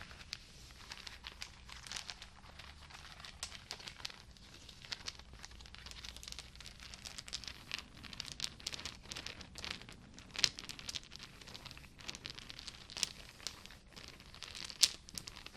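Crinkling and crackling of something crinkly being handled: a dense run of small sharp crackles, with a couple of louder snaps about ten and a half and fifteen seconds in.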